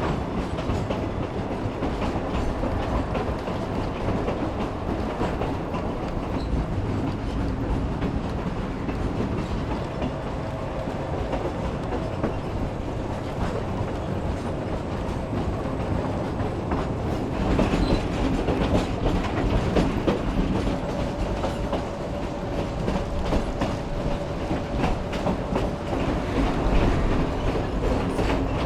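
Narrow-gauge railroad passenger train running along the track: steady rumble with the clickety-clack of wheels over rail joints, and a faint squeal now and then. It gets a little louder about two-thirds of the way through.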